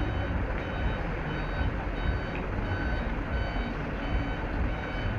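A truck's reversing alarm beeping steadily, one short high beep about every 0.7 seconds, over a steady low rumble.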